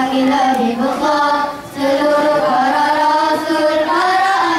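A group of young boys singing a melody together into handheld microphones, in long held notes, with a brief break between phrases about one and a half seconds in.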